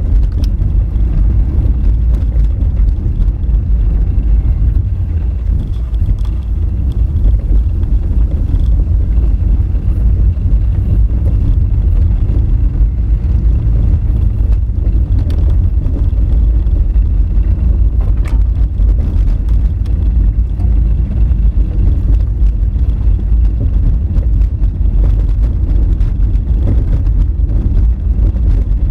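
Honda Fit driving on a rough dirt forest road: a steady low rumble of engine and tyres on gravel, with a few faint knocks and clicks scattered through.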